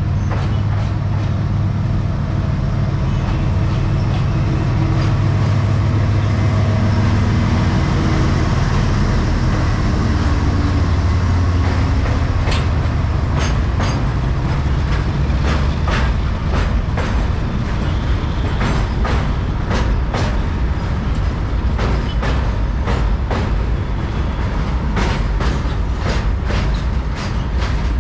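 WDG4G diesel freight locomotive's twelve-cylinder GE Evolution engine running with a steady low note as the locomotive approaches and passes. From about halfway through, the goods train's wagons roll by, their wheels clattering over rail joints in irregular clicks.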